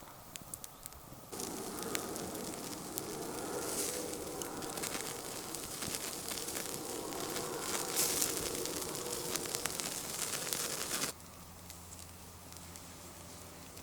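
Campfire crackling with many sharp pops, starting abruptly about a second in and cutting off suddenly a few seconds before the end.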